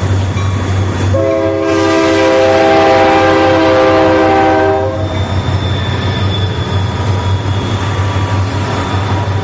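Diesel freight locomotive's multi-chime air horn sounding one long chord-like blast of about four seconds, starting about a second in, over the steady low rumble of the passing train.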